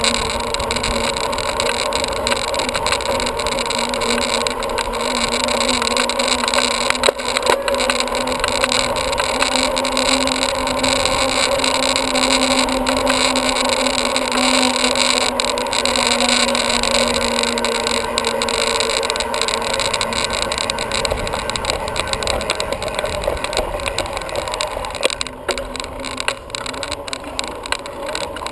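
Steady rolling noise of a bicycle ride: tyre hum and riding noise, with a held low tone that fades out about 20 seconds in.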